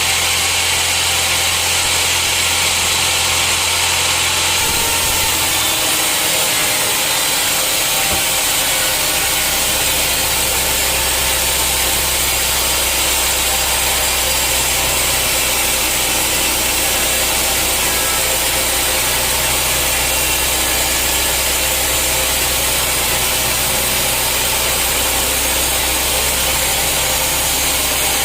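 Sawmill saw running and cutting through hard teak wood: a loud, steady hiss of the blade in the log over a low motor hum, which drops lower between about six and nine seconds in.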